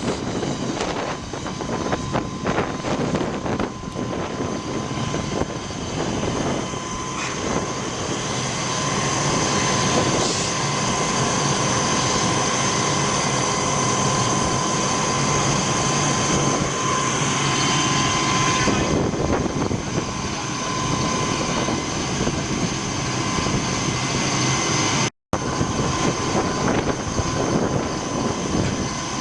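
Fire engine running steadily at the scene, a loud engine drone with a thin steady whine over it. The sound cuts out for a moment about 25 seconds in.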